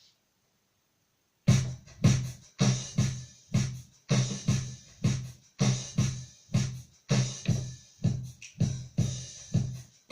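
Electronic keyboard's built-in drum rhythm starting about a second and a half in: a steady beat of kick drum and hi-hat hits, about two strong beats a second, playing as the intro beat of a keyboard cover of a pop song.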